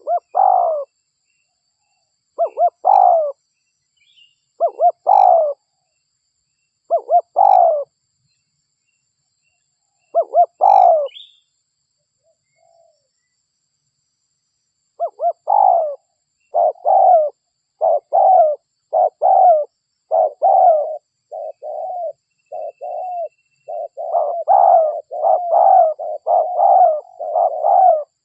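Spotted doves (derkuku) cooing in short phrases of a few coos each, as a lure call. For the first ten seconds or so the phrases come about every two seconds. After a pause of about four seconds they come quickly, one after another, for the rest of the time.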